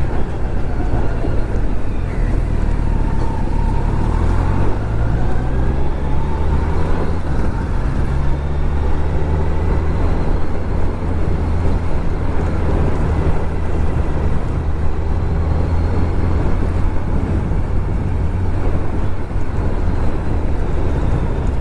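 Kawasaki Z900 inline-four engine running while being ridden; its pitch rises and drops a few times in the first several seconds, then holds steady at cruise.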